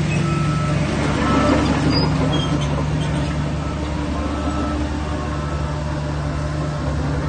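Heavy diesel earthmoving machinery running steadily with a deep, even engine hum, and a few short high beeps through it.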